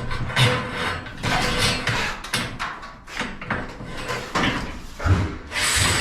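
Irregular clatter and knocking of metal hardware and tools being worked during a garage door spring and roller replacement, with a denser rattling stretch near the end.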